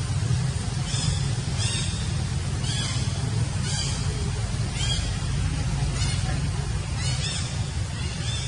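Newborn monkey crying: short high-pitched calls that slide in pitch, repeated about once a second, over a steady low rumble.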